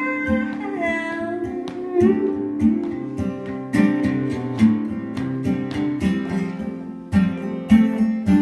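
Live solo folk performance: an acoustic guitar is picked and strummed through an instrumental break. A sung note trails off in the first second or so.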